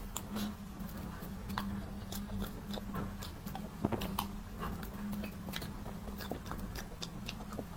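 Close-miked eating of a soft mango cream box cake: irregular wet mouth clicks and chewing, several a second, over a faint steady low hum.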